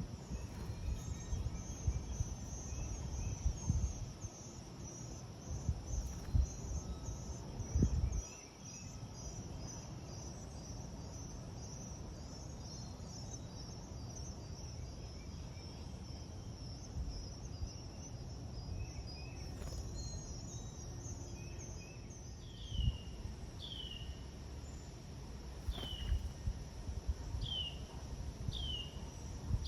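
Steady high-pitched chorus of crickets or other insects, with bursts of low rumbling noise. In the last third a bird gives six short calls, each sliding downward, about one a second.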